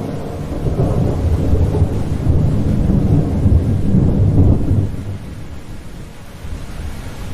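A long rolling rumble of thunder over steady rain: the deep rumble builds for the first few seconds and dies away about five seconds in, leaving the hiss of rain.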